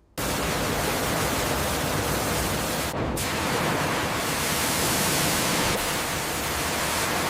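A steady, even hiss that starts abruptly, with a brief break about three seconds in.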